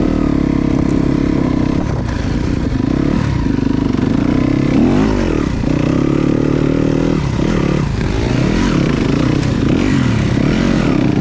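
Dirt bike riding along a trail, the motor's pitch repeatedly rising and falling as the throttle opens and closes.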